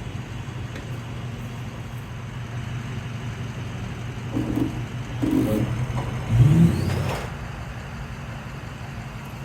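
A steady low engine hum, with a louder swell that rises in pitch about six and a half seconds in.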